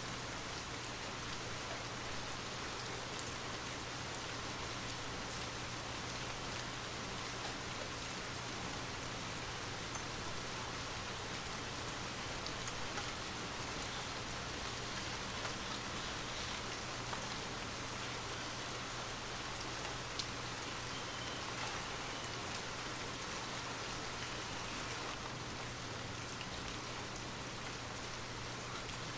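Steady rain falling, an even hiss with scattered individual drop ticks, over a steady low hum.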